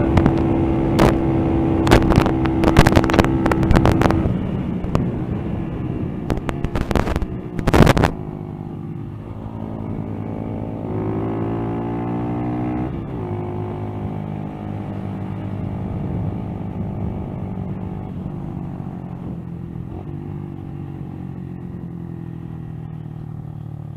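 Motorcycle engine running on the move, with heavy wind buffeting on the microphone for the first eight seconds or so. The engine pitch then rises as it accelerates, drops at a gear change about thirteen seconds in, and holds fairly steady after.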